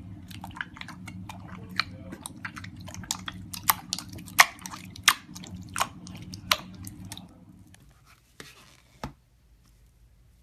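Slime being squeezed and poked by hand, making a quick run of crisp wet pops and clicks, thinning out to a couple of last pops. A low steady hum underneath stops about eight seconds in.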